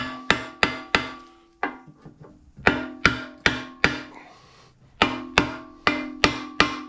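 A hammer tapping on metal, with each sharp blow ringing on in a clear metallic tone. The blows come in runs of about four, two or three a second, with short pauses between the runs.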